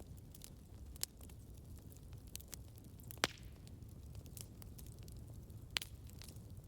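Campfire burning with a steady low rumble and scattered sharp crackles and pops from the burning wood, the loudest pops about a second in, near the middle and near the end.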